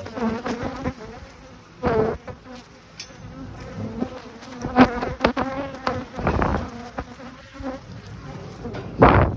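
Honeybees buzzing close around the microphone: a steady buzz with several louder swells as bees fly near, the loudest near the end.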